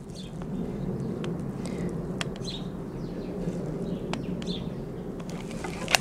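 Birds chirping now and then over a steady low hum, with a few sharp clicks, the loudest near the end.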